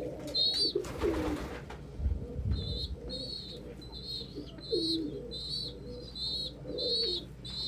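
Young pigeon squeakers peeping, high wavering begging calls repeated about twice a second from about three seconds in, with adult pigeons cooing low underneath. A short rustling hiss about a second in.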